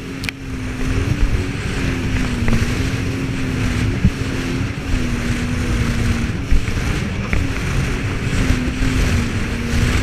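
Jet ski engine running at a steady speed, its pitch wavering slightly, with wind rushing over the microphone and water noise.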